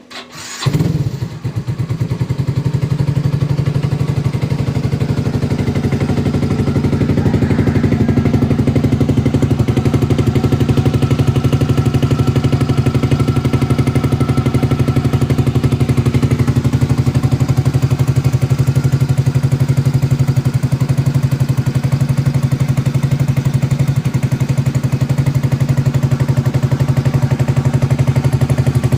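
Yamaha Mio i 125 scooter's single-cylinder engine, bored up to about 160 cc with a 59 mm JVT kit, starts about half a second in, flares briefly and then idles steadily with an even pulsing beat.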